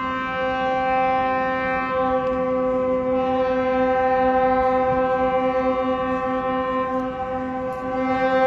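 A ship's horn sounding one long, steady blast, held at a single pitch throughout.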